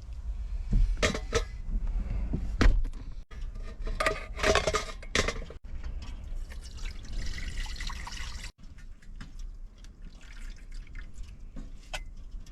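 Water pouring and splashing as food is rinsed, with sharp knocks of a pot or bowl. The sound breaks off abruptly three times.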